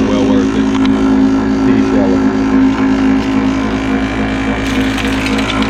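Taylor electric pea sheller running with a steady motor hum; near the end a clicking rattle joins it as pods go through the rollers.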